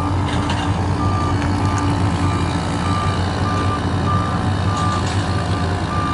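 Vehicle reversing alarm beeping steadily, about three beeps every two seconds, over the low, steady running of the vehicle's engine.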